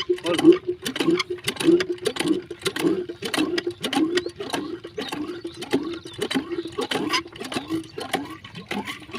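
Diesel engine driving a water pump, running steadily with a fast, even knocking beat.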